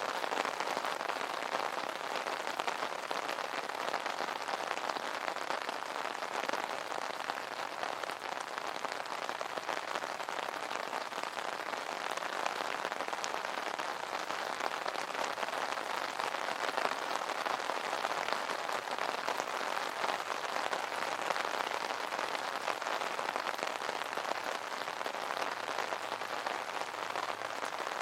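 Steady rain falling on an umbrella canopy: a dense, even stream of small drop hits with no letup.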